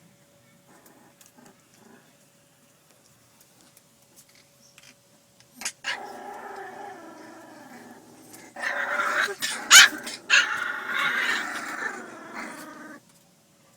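Boxer puppies growling in long, drawn-out pitched growls, faint at first, then louder over the last few seconds before stopping, with a couple of sharp knocks partway through.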